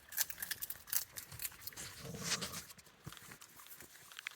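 Raccoons growling and chittering at close quarters over food, a short rough growl about two seconds in among scattered light clicks. The growling is the sign of a cranky raccoon warning off the others.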